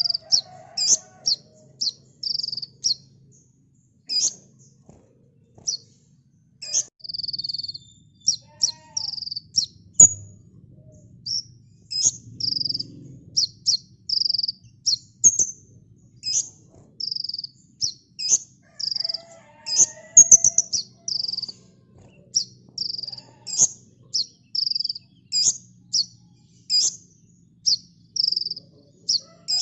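Kolibri ninja sunbird singing: a fast, continuous run of short, high chirps and brief trills, several a second. A sharp click sounds once, about ten seconds in.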